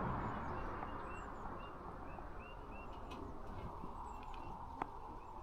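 Quiet outdoor background with a small bird chirping repeatedly, short high notes about twice a second, and a single faint click near the end.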